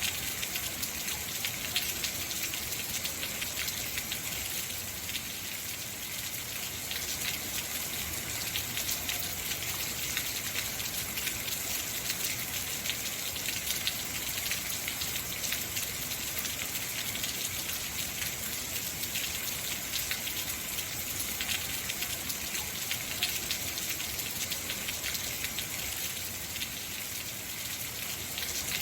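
Heavy rain falling steadily: an even hiss made of countless fine drop impacts, unchanging throughout.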